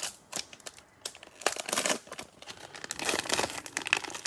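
Plastic wrapper of a trading-card cello pack crinkling and rustling in irregular bursts as it is handled.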